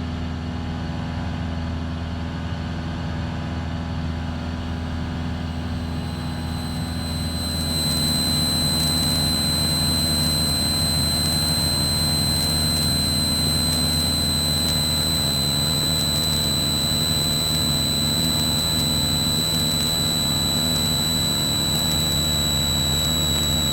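Cessna 172 Skyhawk's piston engine and propeller droning steadily, heard inside the cockpit. About seven seconds in, a steady high whine joins and the drone gets a little louder, then holds.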